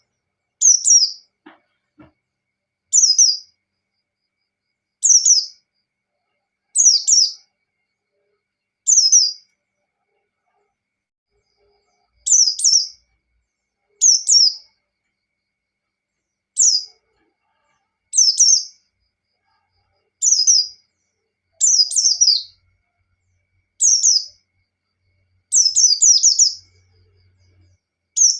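White-eye (pleci) singing: short, high chirping phrases, each falling in pitch, repeated about every two seconds, with a few phrases doubled up near the end.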